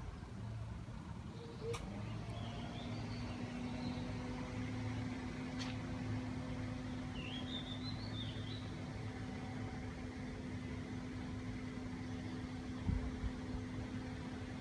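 Steady low mechanical hum, with a steady tone joining it about two seconds in. Faint short bird chirps come twice, and a few light clicks.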